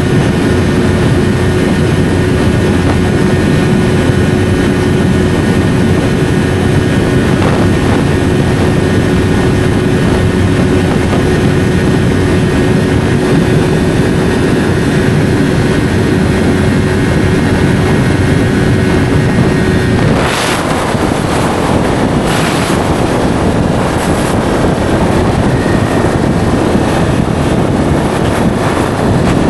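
Yamaha R3A parallel-twin engine with an SC Project slip-on exhaust, running at a steady note under riding wind noise. About two-thirds of the way through, the steady note breaks off into a rougher, slightly quieter rush with a few short sharp noises.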